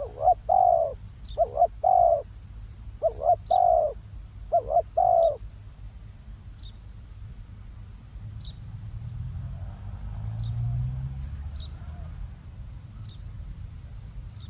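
Spotted dove cooing: four phrases of two or three notes in the first five seconds, then it stops. Faint short high chirps repeat about once a second, and a low rumble swells and fades in the second half.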